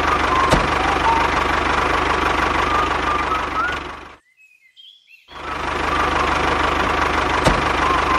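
Tractor engine running steadily with a fast, even chug, with birds chirping over it. The engine sound cuts out for about a second just past the middle, leaving only faint chirps, then resumes. A sharp click comes about half a second in and another near the end.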